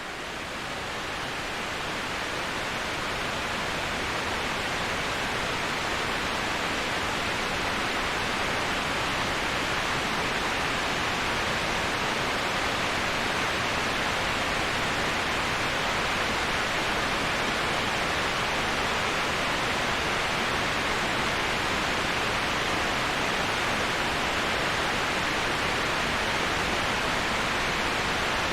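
Waterfall white noise: a steady, even rush of falling water that swells in over the first few seconds and then holds constant.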